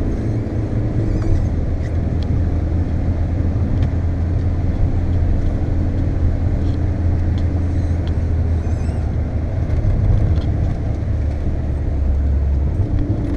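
Steady engine drone and road noise heard from inside a Volkswagen Golf's cabin, driving at speed on a wet track; near the end the engine note drops a little.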